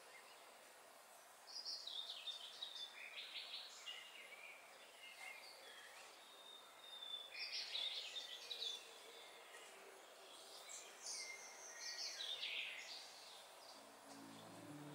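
A songbird singing faint runs of short high chirps in three main phrases a few seconds apart, over a steady background hiss.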